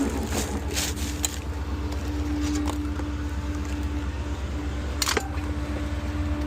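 Ford F-550 rear-loader garbage truck running at idle, with a steady mid-pitched drone over the engine's low hum. A few short knocks and rustles come through, the loudest about five seconds in.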